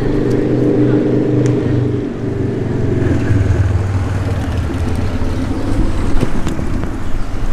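Engines of passing motor vehicles: a steady low engine hum that changes pitch about two seconds in as one vehicle gives way to another, then becomes a rougher rumble.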